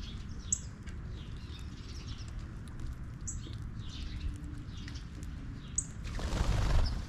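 Small birds chirping and calling, with a sharp high note repeating three times about two and a half seconds apart, over a low steady rumble. Near the end comes a louder rushing burst lasting about a second.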